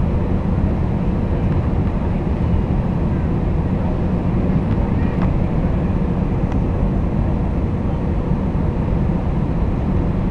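Steady low rumble of a Boeing 767-300ER's engines and rushing air, heard inside the passenger cabin, with a faint steady hum over it and no change in level.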